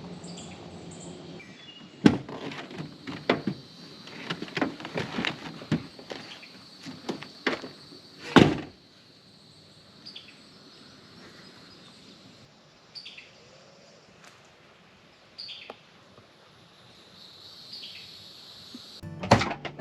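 A run of knocks and thuds over several seconds, the loudest about eight seconds in, then a quieter stretch of woodland background with a few bird chirps and a steady high insect drone.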